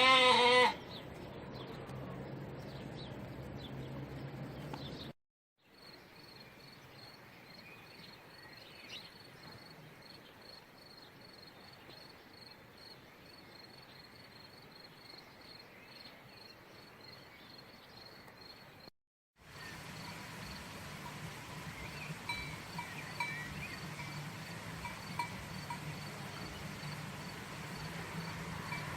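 A single loud bleat from a goat or sheep in the first second, then quieter background with a faint, evenly repeated high chirping, broken by two brief dropouts where the clips change.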